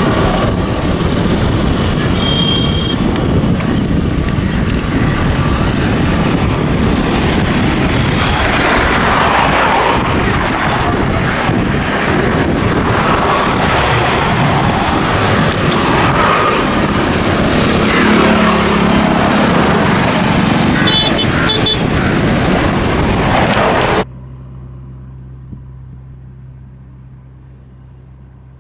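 Train passing close by at speed: a loud, steady rush of wheel and rail noise that cuts off suddenly about 24 seconds in, leaving a faint low hum.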